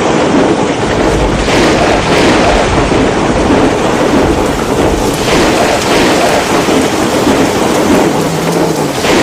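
Heavy storm rain pouring down, a loud steady rush that swells several times.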